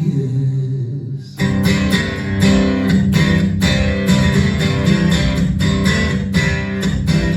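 A sung note fades out, then strummed acoustic guitar comes in loudly about a second and a half in and keeps a steady, driving rhythm as an instrumental break between verses.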